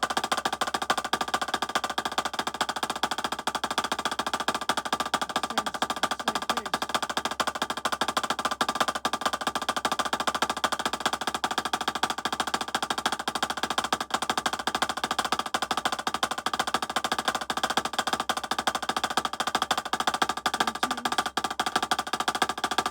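Snare drum struck with sticks in a fast, unbroken stream of strokes: a rudimental chop-building exercise played at speed.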